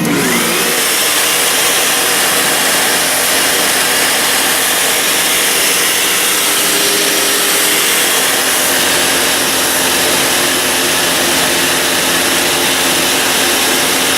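Vacuum cleaner running steadily and loudly: a constant rush of air with a faint steady hum underneath.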